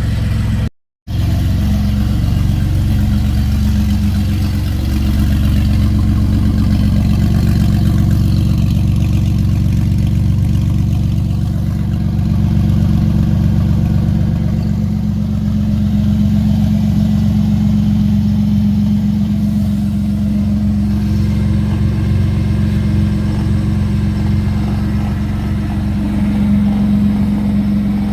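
Twin-turbo V6 Mustang engine running at a steady idle, with a brief dropout in the sound about a second in.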